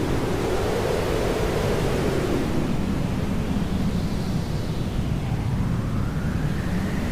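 Hair dryer running steadily, an even rushing noise used as white noise, its tone drifting slowly up and down.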